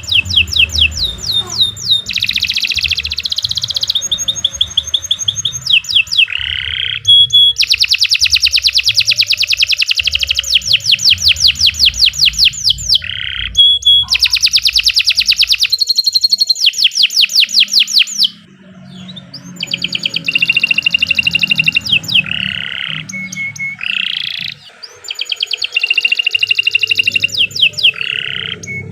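Domestic canary singing long, continuous song: one tour after another of fast rolling trills, each a rapid run of repeated high notes, the pattern changing from tour to tour. There is a brief pause a little past the middle.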